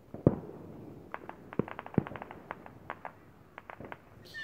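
Distant fireworks: one sharp bang just after the start, then a run of quick crackling pops, several a second.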